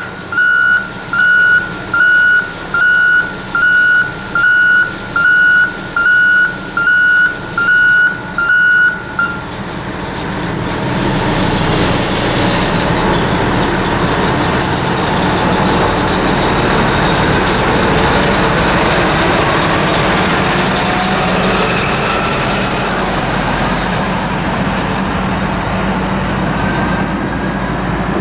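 An electronic warning beeper sounds a single-pitched beep a little faster than once a second, about eleven times, and stops about nine seconds in. A steady rumbling rush of a passing vehicle then builds up and holds.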